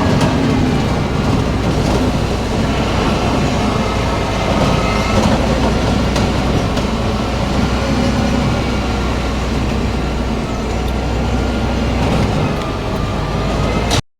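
International dump truck driving slowly, its engine running with a steady low hum and constant rattling. The sound cuts off suddenly near the end.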